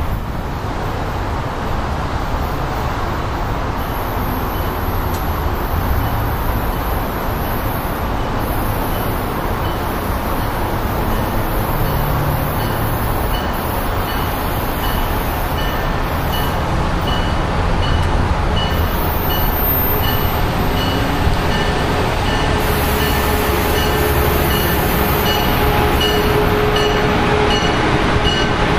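An Amtrak electric passenger train approaching along the track. Its steady rumbling noise grows gradually louder, with a thin high tone pulsing at an even rhythm and a steadier tone joining near the end as it draws close.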